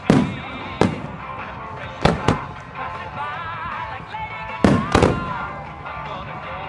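Aerial firework shells bursting: about six sharp booms, some in quick pairs, each with a rumbling echo tail, over music playing throughout.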